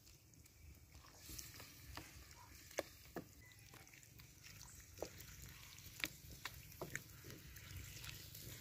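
Raw chicken pieces sizzling faintly in curry paste in a steel pan over a wood fire, while a spatula stirs them and knocks against the pan a dozen or so times.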